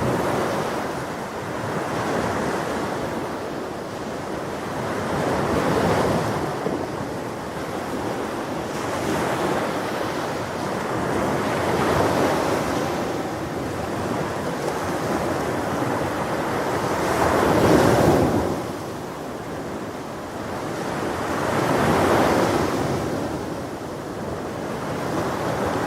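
Ocean waves breaking and washing on a shore, each one swelling and fading about every four to six seconds. The wave about 18 seconds in is the loudest.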